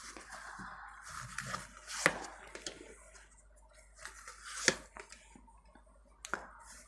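Tarot cards being handled: a soft rustle of card stock for the first couple of seconds, then a few sharp taps and snaps as cards are drawn and laid down.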